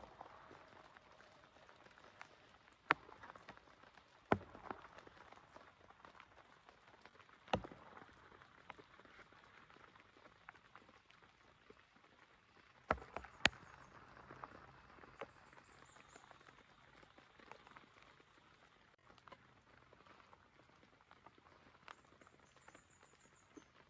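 Light, faint rain with a few scattered, sharp drops or ticks landing on a nearby surface.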